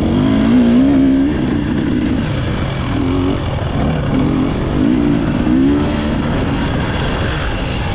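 Dirt bike engine revving up and down with repeated throttle swells over a heavy low rumble.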